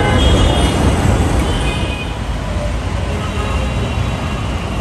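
Steady low rumble of road traffic, with no distinct events; it eases slightly about two seconds in.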